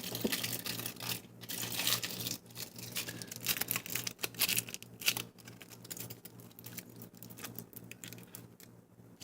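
Aluminum foil crinkling and rustling as it is wrapped and pressed around the sides of a fidget spinner, louder in the first half and fainter after about five seconds.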